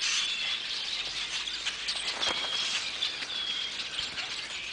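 Small birds calling outdoors: a few short, high, even-pitched chirps, the longest about two seconds in, over steady outdoor background noise.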